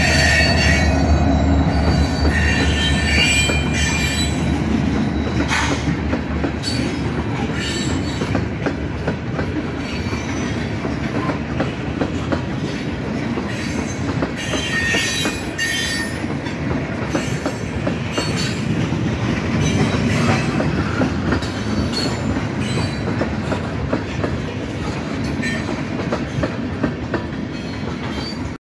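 Freight train rolling past close by. A diesel locomotive's deep engine hum is heard in the first few seconds, then tank cars pass with a steady rumble of steel wheels on rail, repeated clacks over the rail joints and crossing, and high wheel squeals that come and go.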